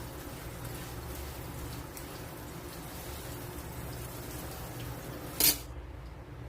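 Water running steadily, as from a tap while fish are washed, with one sharp click about five and a half seconds in.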